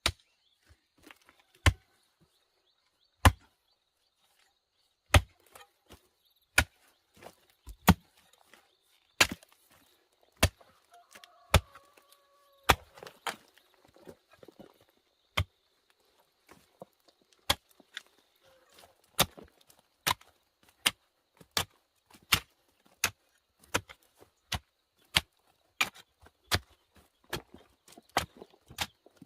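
A blade chopping into wood with sharp, separate strokes, uneven at first and then settling into a steady rhythm of about one to two blows a second.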